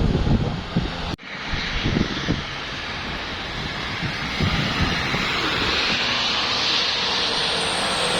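Trucks passing on a road: engine rumble under a steady rushing of tyre and air noise that swells toward the end. There is a brief dropout about a second in.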